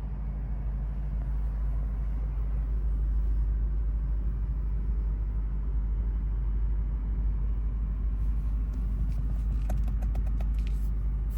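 The 2024 Lexus IS 500 F Sport's 5.0-litre V8 running steadily with a low rumble. A short run of quick clicks comes near the end.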